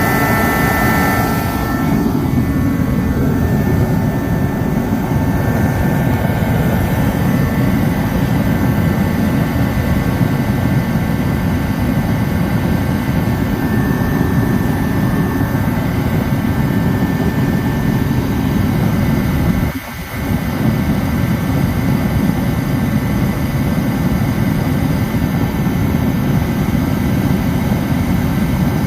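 Dyna-Glo KFA80H 80,000 BTU forced-air diesel heater running: steady fan and burner roar. A high whine over it stops about a second and a half in, and the sound dips briefly about two-thirds of the way through.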